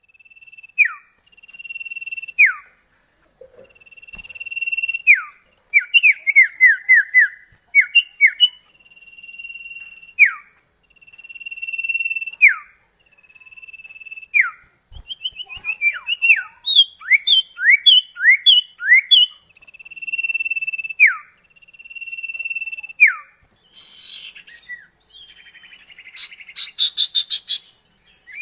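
Common iora (cipoh kacat) singing in a lively repeated song. Long level whistles each end in a sharp downward slur, about every two seconds. Between them come runs of quick down-slurred notes, and a fast rattling trill near the end.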